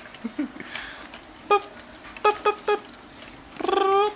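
Baby's short high coos and squeaks: four brief ones in quick succession, then one longer drawn-out coo near the end.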